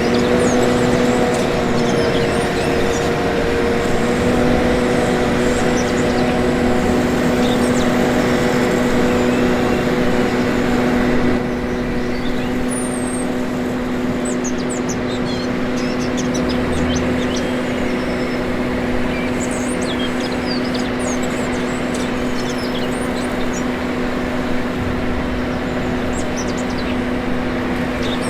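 Steady motor hum from a 1/14-scale remote-control construction machine, with a few even, unchanging tones. It drops slightly in level about eleven seconds in. Birds chirp faintly throughout.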